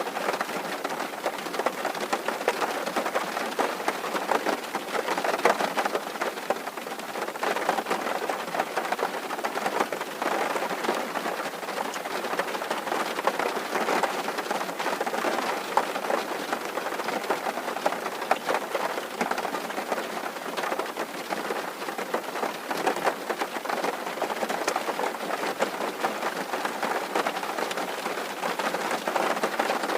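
Rain falling steadily on a tin roof: a dense, unbroken patter of countless small drop hits.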